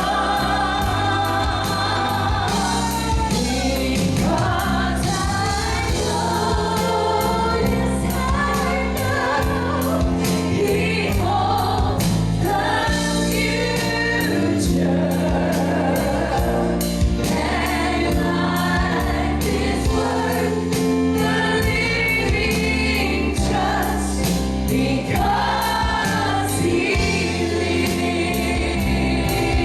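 Congregational gospel singing: a choir of voices singing a worship song over a band with bass and a steady drum beat.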